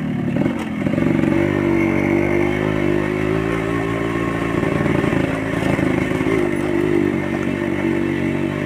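Yamaha RX Special's 115 cc single-cylinder two-stroke engine running through an original RX King exhaust as the motorcycle is ridden along; the engine note dips and then picks back up about a second in, then holds steady.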